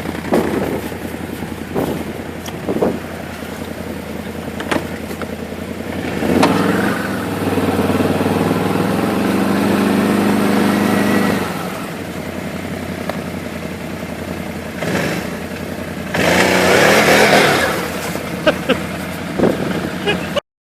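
Tracked ATV engine running in snow and revving under load as the machine works to drive out. There is a long rev about six seconds in and a louder burst of power around sixteen seconds in, and the sound cuts off suddenly just before the end.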